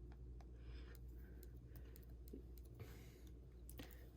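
Near silence with a low hum and scattered faint small clicks and taps, as of small parts and tools being handled.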